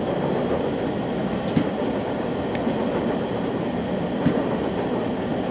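West Coast Express commuter train in motion, heard from inside a passenger coach: a steady rumble of wheels running on the rails, with a couple of sharp clicks about one and a half and four seconds in.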